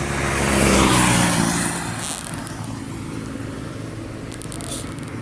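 A motor vehicle passes close by, loudest about a second in, its engine note falling in pitch as it goes past. It then fades into steady road traffic noise.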